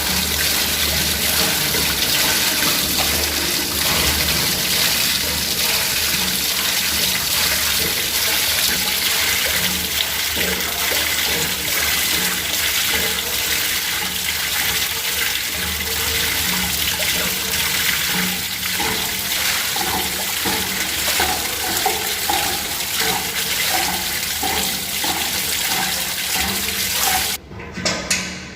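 Water gushing steadily out of a booster pump's pressure tank through the opened pipe union, then stopping suddenly near the end as the tank empties. The water is draining from the tank's outer air space, where it leaked through the torn rubber bladder.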